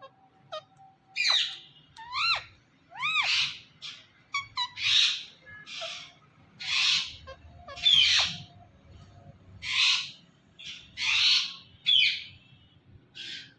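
Pet green parrot calling: a series of harsh, screechy calls about once a second, with two clear whistled notes that rise and fall in pitch near the start.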